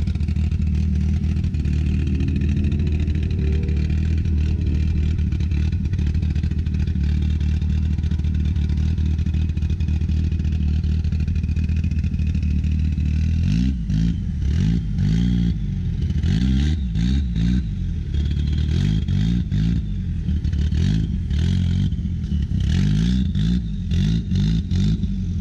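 A vehicle engine running loudly and steadily, then from about halfway through revved over and over, the pitch rising and falling with each blip of the throttle.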